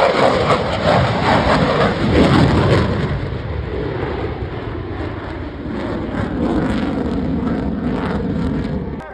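Fighter jet flying past, its engine noise loudest in the first few seconds and then easing into a steadier, fainter rush. The sound cuts off suddenly near the end.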